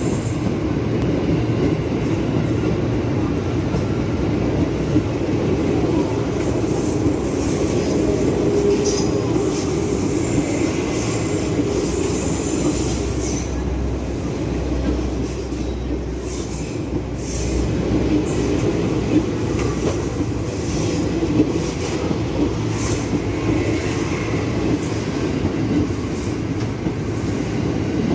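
Electric commuter train passing close by: a steady rumble of wheels on rails with clacks over rail joints, and a faint high wheel squeal near the middle.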